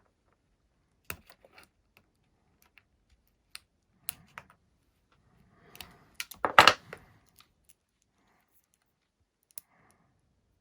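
Scattered small plastic clicks and ticks from working the locking tab of a small wire connector plug with a knife, with a louder brief clatter about six and a half seconds in.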